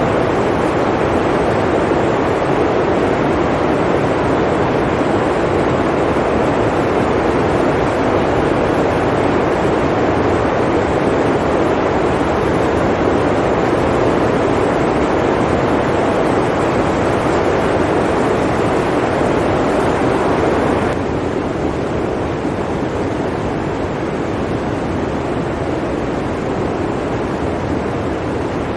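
Blizzard wind blowing as a steady, dense rush, stepping down abruptly to a slightly quieter, duller rush about three quarters of the way through.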